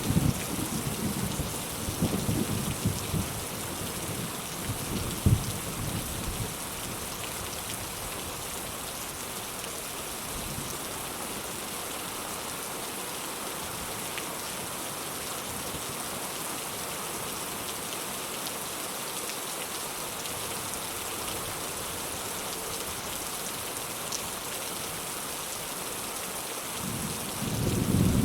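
Steady rain falling. A roll of thunder rumbles and fades over the first few seconds, and another starts to build near the end.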